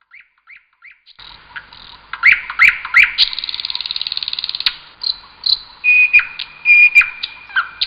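Birds chirping with an insect-like trill: short rising chirps, then a rapid buzzing trill about three seconds in and a held whistled note near the end.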